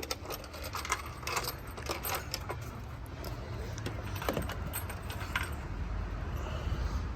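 Light metallic clinks and jingling of small metal objects being handled, scattered irregularly, over a steady low rumble.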